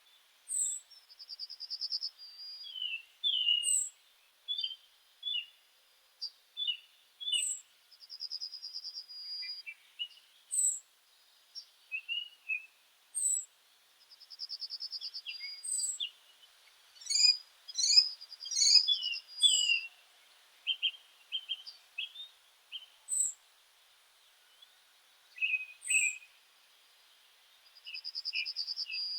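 Several meadow birds singing and calling together: a buzzy trill that recurs every several seconds, high thin notes repeated steadily, and short chirps. The chirps crowd together and are loudest about two-thirds of the way through.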